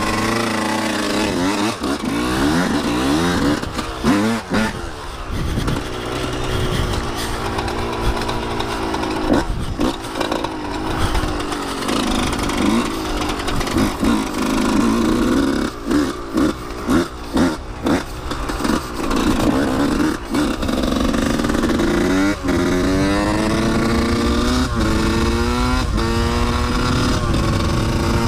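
Dirt bike engine being ridden, the throttle opening and closing, then revving up through the gears near the end, the pitch climbing and dropping back at each shift.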